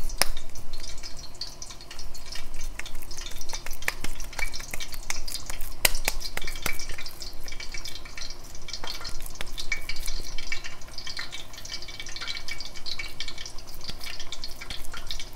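Beef chapli kebab shallow-frying in hot oil: a steady sizzle full of quick crackles and sharp pops.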